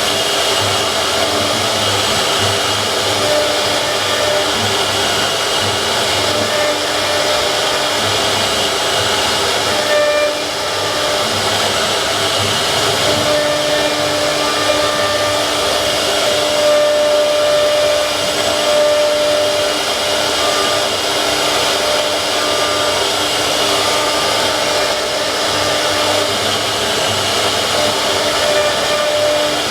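Wood CNC router's spindle running steadily as it carves, with a hiss and a few higher tones that switch on and off as the machine moves.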